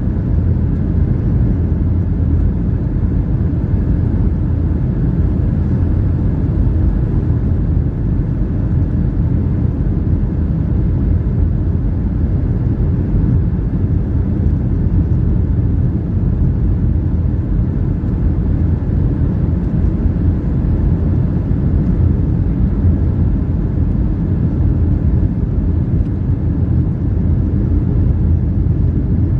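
Boeing 757-300 cabin noise: a steady, even rumble of the jet engines and the aircraft, heard from inside the cabin.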